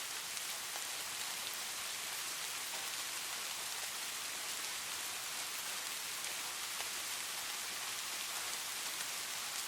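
Steady rain falling, an even hiss with fine patter of drops on a surface and no thunder.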